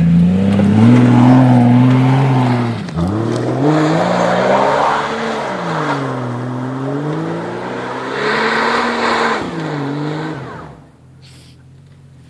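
Jeep engine revving hard, its pitch climbing and falling several times as the throttle opens and eases, with the hiss of its mud tyres spinning in snow. The sound drops away near the end.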